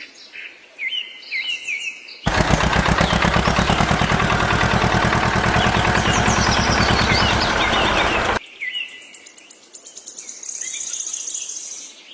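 Birds chirping, broken for about six seconds by a loud, very fast mechanical rattle that starts abruptly a couple of seconds in and cuts off suddenly; the birds carry on afterwards, with a steady high insect-like buzz near the end.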